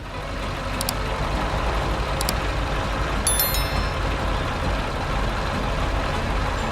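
Heavy truck engine running steadily, a sound effect for an animated construction vehicle. Two brief high clicks come about one and two seconds in, and a short cluster of high chiming tones about halfway through.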